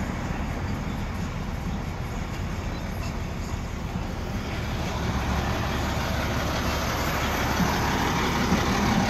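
Motor vehicle running with a steady low rumble and road-like noise, growing a little louder about halfway through.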